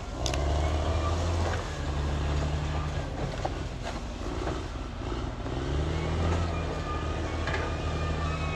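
Caterpillar D6R XL bulldozer's diesel engine running under load, its note dipping and picking up again a few times as it works, with a few sharp knocks.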